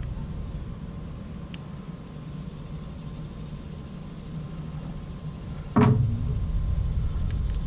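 Steady low background rumble, with one sudden loud knock about six seconds in.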